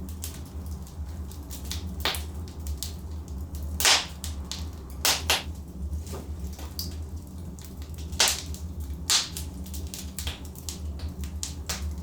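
Logs burning in a fireplace, crackling with frequent pops and snaps, a few much louder pops about four, five, eight and nine seconds in, over a steady low rumble.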